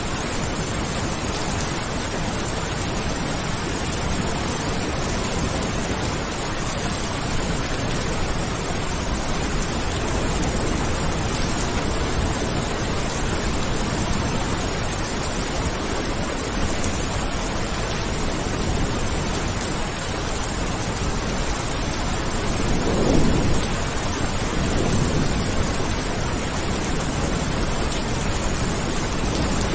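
Heavy rain falling in a steady, even hiss, with a roll of thunder swelling about three-quarters of the way through and rumbling on for a few seconds.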